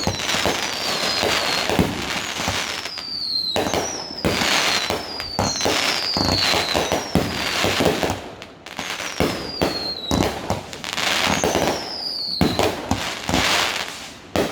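Fireworks going off: a rapid, continuous run of bangs and crackling, with several high whistles that slide down in pitch.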